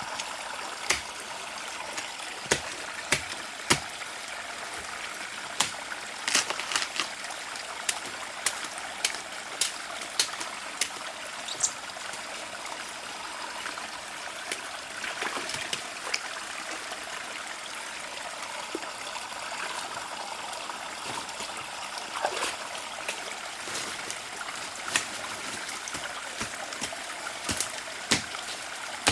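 Water running and trickling steadily, with scattered small clicks and knocks over it.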